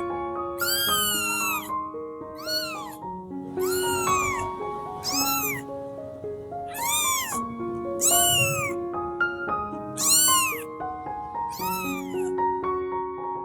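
Eleven-day-old kittens meowing loudly and repeatedly, about nine high, arching cries that rise and fall in pitch: the calls of kittens crying for their mother.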